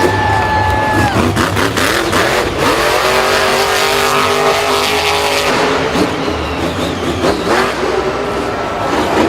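Vehicle engine revving, its pitch rising and falling, with a steadier engine tone from about three seconds in that cuts off sharply a couple of seconds later.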